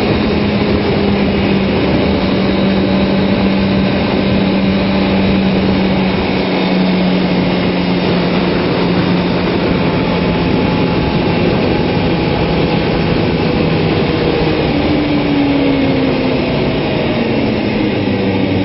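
Kawasaki ZX-6R inline-four engine running under steady throttle at track speed, heard onboard through heavy wind rush. The engine note drifts slowly down, then climbs again about three-quarters of the way through.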